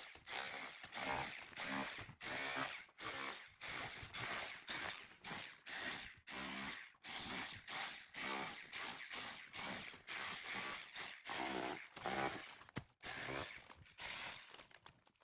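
Metal chisel scraping plaster and mortar off a stone wall in repeated rasping strokes, about two to three a second.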